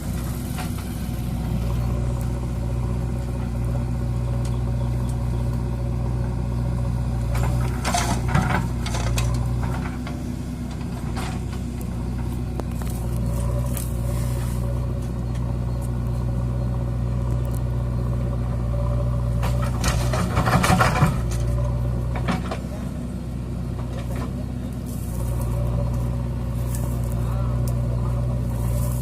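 Swaraj 744 FE tractor's three-cylinder diesel engine running steadily, its note easing off a little a couple of times. A short, louder burst of sound cuts in about twenty seconds in.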